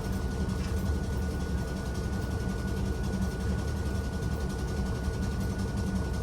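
Hakone Tozan Railway electric train running: a steady low rumble with a thin, steady high whine over it.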